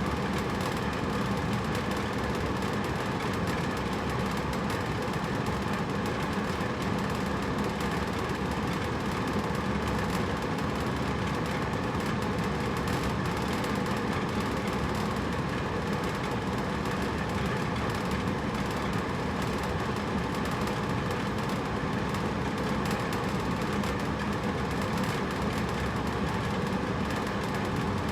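Hotel room air conditioner running: a steady rush of air with a constant hum under it.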